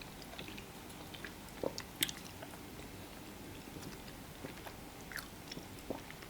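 Faint eating sounds of fufu and fish pepper soup: chewing with scattered small mouth clicks and smacks, two sharper ones about two seconds in.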